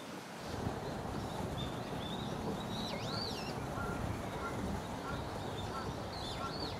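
Birds chirping over a steady outdoor background hiss, with a couple of quick up-and-down whistled calls about three seconds in and again near the end.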